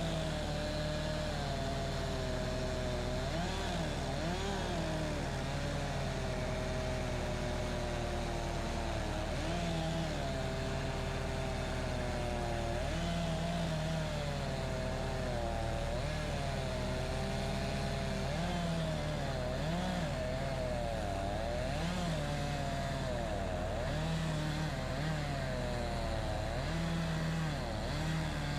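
Wood-Mizer LX25 bandsaw sawmill's engine running steadily. Its pitch sags and recovers again and again as the blade cuts through cedar.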